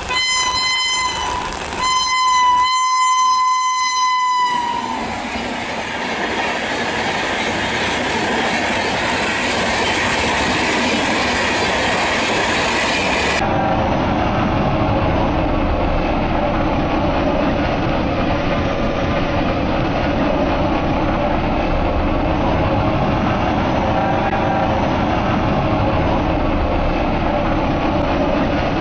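A locomotive horn sounds in short blasts and then a longer blast as a Shatabdi Express approaches. Then the express's coaches and generator car pass close by with a loud, steady rumbling rush of wheels on rail.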